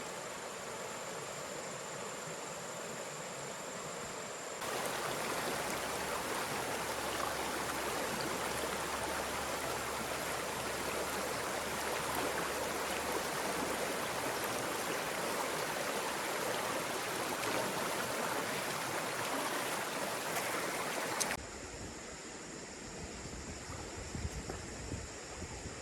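Steady rushing of running water, an even hiss with no distinct events; it jumps louder about five seconds in and drops back shortly before the end. A thin, steady, high insect drone sits under it for the first few seconds.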